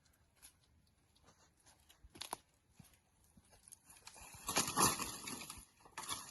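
Scattered snaps and crackles of dry twigs and branches being gathered, then a louder stretch of rustling and crunching through brush and leaf litter about four to six seconds in.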